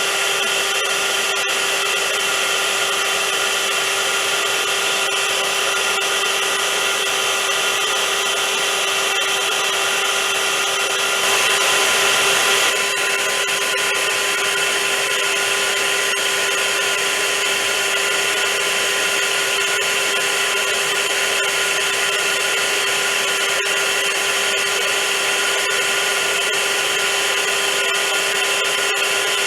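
Vacuum cleaner running steadily: a loud, even rushing of air over a steady motor hum, briefly a little louder and brighter for a second or so near the middle.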